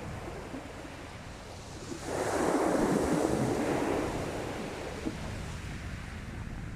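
Sea waves washing on a beach: a steady wash of surf, with one wave surging in about two seconds in and slowly fading away.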